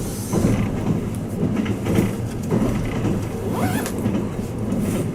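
Inside the cabin of the Twilight Express Mizukaze train while it runs: a steady low rumble and hum, with scattered clicks and knocks from the wheels and the car body.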